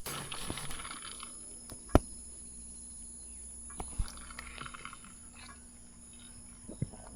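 Quiet outdoor ambience with a faint steady hum, broken by two sharp knocks, about two seconds in and again about two seconds later.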